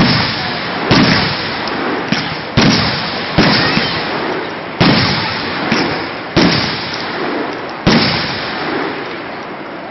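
Fireworks going off: about eight sharp bangs roughly a second apart, each followed by a fading crackle, the last about eight seconds in.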